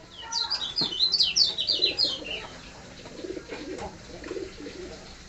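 Kecial kuning white-eye singing a fast, varied run of high, falling chirps that lasts about two seconds. Fainter, lower chattering notes follow.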